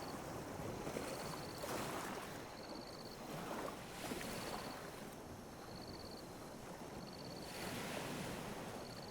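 Small ocean waves lapping and washing ashore, swelling every few seconds, with a short high trilling chirp repeating about every one and a half seconds.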